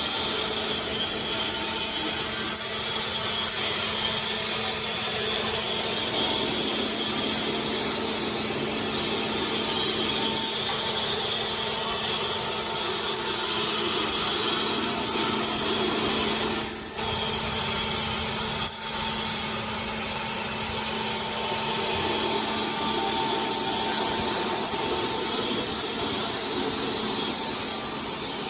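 Automatic neck paper roll rewinding machine running at production speed: a steady machine hum and rush with a few constant whining tones, briefly dropping out twice just past the middle.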